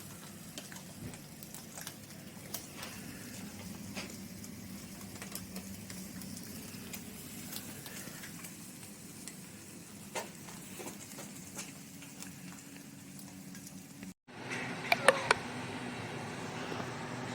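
Wood fire crackling in a fireplace: scattered soft pops over a low steady hum. About fourteen seconds in the sound drops out briefly and comes back louder, with a few sharp clicks.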